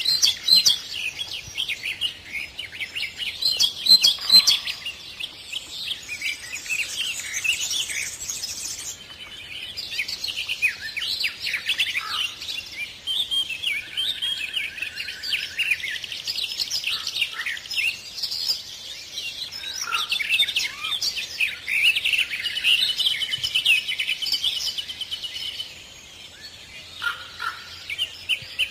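Many songbirds singing and chirping at once, a dense chorus of overlapping calls, with a short even trill about halfway through.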